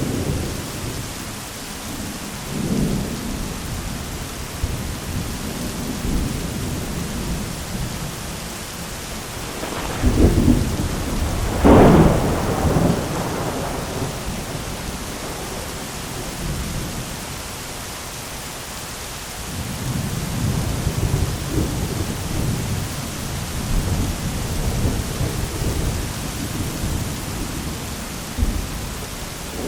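Heavy rain hissing steadily on an umbrella while thunder rumbles. Two loud cracks of thunder come about a third of the way in, and a longer rolling rumble follows in the second half.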